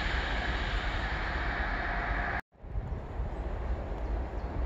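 Steady rail noise of a passing train, a loud hiss with a low rumble, cut off abruptly about two and a half seconds in. After the cut comes quieter open-air ambience with a low rumble of wind on the microphone.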